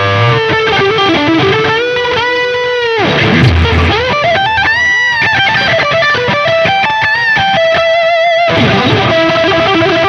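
Electric guitar music with distortion: bending, sustained lead notes over a held chord.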